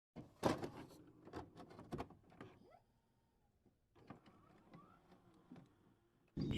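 Faint scattered clicks and knocks in two clusters with a short silence between them, then a steadier outdoor background cuts in suddenly near the end.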